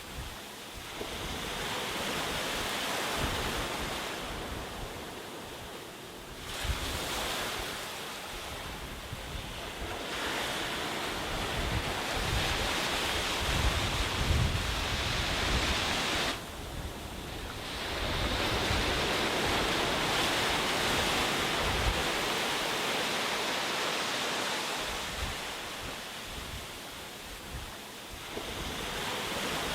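Sea surf washing onto a beach in about four long swells, each building over several seconds and falling back, the loudest about halfway through and dropping away suddenly soon after. Wind buffets the microphone with a low rumble.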